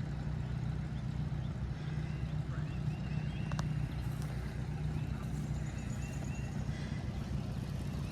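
An engine running steadily with a fast, even beat. A single sharp click comes about three and a half seconds in.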